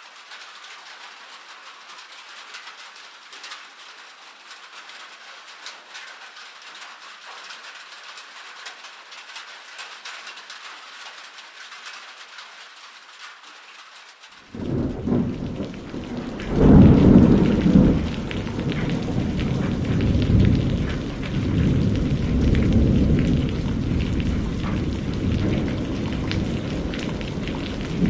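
Light rain pattering as a soft, even hiss; about halfway through it cuts abruptly to a much louder recording of heavy rain with thunder rumbling, loudest a couple of seconds after the change.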